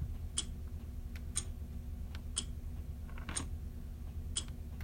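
A clock ticking steadily, about one sharp tick a second, over a low steady hum.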